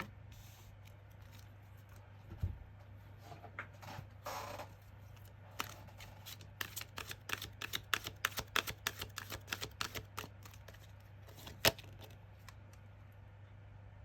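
Tarot cards being handled on a table: a sliding swish about four seconds in, then a run of quick light clicks and taps, several a second, with a sharper tap near the end. A steady low hum lies underneath.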